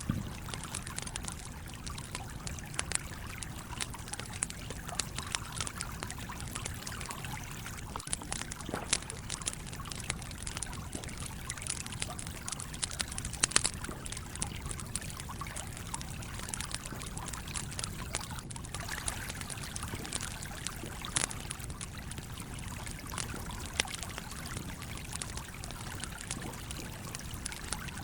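Campfire crackling, with scattered sharp pops over the steady rush of a flowing stream; one pop a little under halfway through is the loudest.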